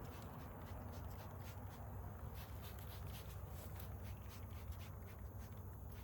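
Faint scattered clicks and light rustles over a low steady hum.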